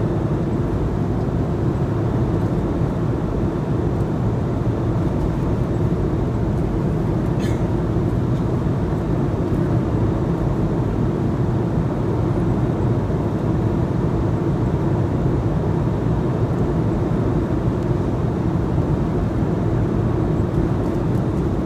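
Steady cabin noise inside a passenger jet in flight: an even low rumble of the engines and rushing air with a faint steady hum, unchanging throughout.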